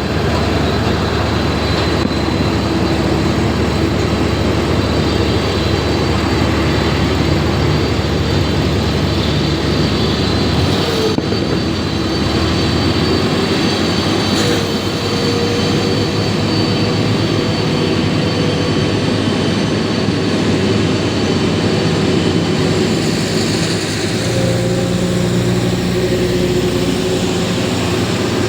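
Jet engines of a taxiing cargo airliner: a loud, steady rush with a high engine whine and a low rumble that shifts a little about a third of the way in and again near the end.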